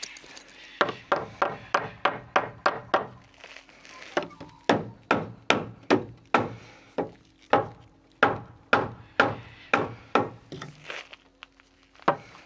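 Repeated hammer blows on timber, about two to three strikes a second, in three runs with short breaks between them, dying away near the end.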